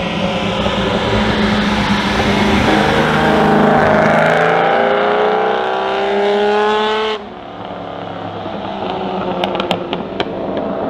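Ferrari 250 Europa Vignale's V12 engine pulling hard, its note climbing steadily in pitch as the car accelerates. About seven seconds in the sound cuts off abruptly to a quieter engine sound, with a few sharp pops near the end.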